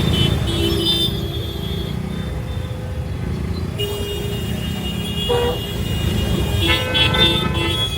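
City road traffic with vehicle horns honking several times, near the start, around the middle and near the end, over a steady low rumble of wind and road noise.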